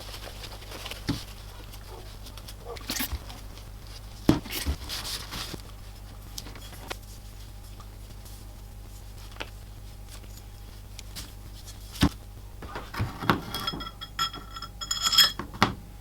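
Scattered clicks and knocks of metal being handled, with a quicker run of light metallic clinks that ring briefly near the end, over a steady low hum.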